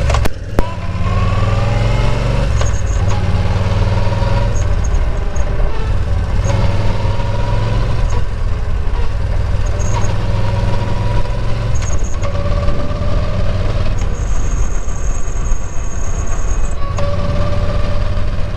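Yamaha XVS950A's air-cooled V-twin running under way, its pitch climbing and dropping back several times, with a thin high ringing that comes and goes and holds for a few seconds near the end. This is the bell-like drivetrain ringing that shows up when drive is taken off with the throttle shut or the clutch pulled: first suspected to be the drive belt squealing, but it persists after silicone grease was put on the belt's sides.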